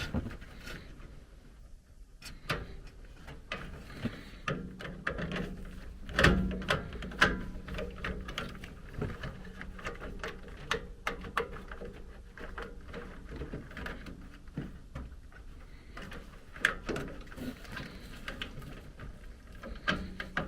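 Irregular small clicks, taps and knocks of hands working on a gas furnace's control board, handling thermostat wires and terminal screws, with a few louder knocks around six to seven seconds in.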